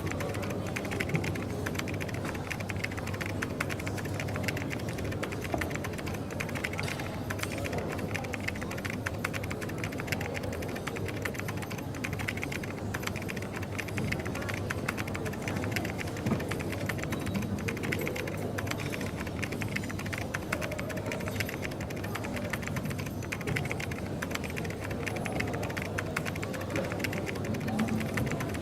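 Coffee shop ambience: a steady background hum and murmur with many small clicks and light clatter scattered throughout.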